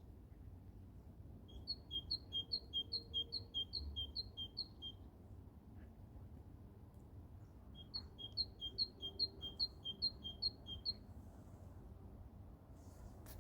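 A small songbird singing two runs of a quick, repeated two-note phrase, each run lasting about three seconds with a pause between.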